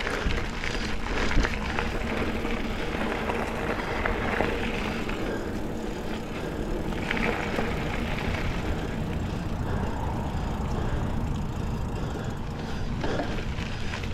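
Mountain bike riding along a dirt double-track trail: steady rolling noise of tyres and drivetrain with wind rumbling on the microphone, and scattered short rattles.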